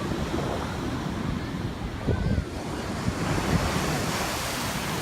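Ocean surf breaking and washing onto the beach, with wind buffeting the microphone in a low, steady rumble. The hiss of the surf swells about three seconds in.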